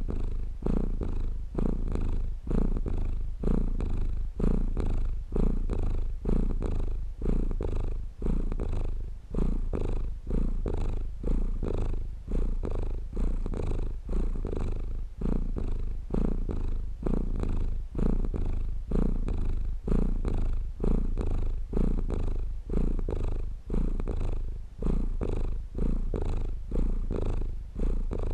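Domestic cat purring steadily, a low rumble that pulses evenly a little over once a second.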